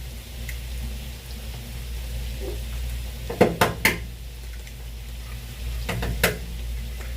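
Steady frying sizzle of food cooking in a pan, with sharp kitchen taps against a bowl or pan: three close together about halfway through and one more near the end.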